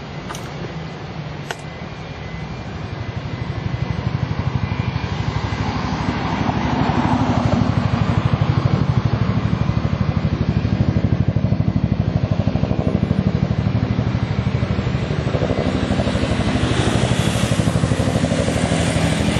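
Aircraft engine noise that swells over the first few seconds into a loud, steady rumble with a fast pulsing beat, with a higher hiss building near the end. Two short clicks sound in the first couple of seconds.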